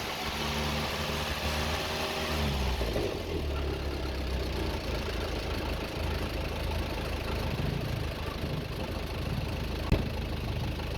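Mazda T3500 truck's freshly rebuilt diesel engine, fitted with a new crankshaft, idling steadily; its pitch settles slightly lower about two and a half seconds in. A single sharp knock comes near the end.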